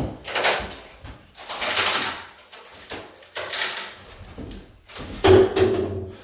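Wooden cabinet being worked apart with a hand tool: a run of rough scraping strokes, each about a second long, with a knock at the start and the loudest, heavier knock about five seconds in.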